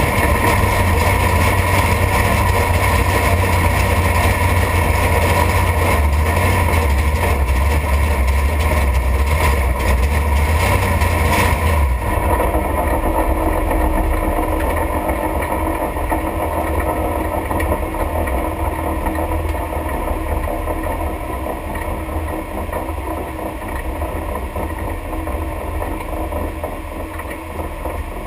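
A big-inch V8 race car engine running steadily, heard from inside the caged cabin, with a deep rumble. About twelve seconds in the sound changes abruptly to a duller, quieter rumble that slowly fades as the car rolls on.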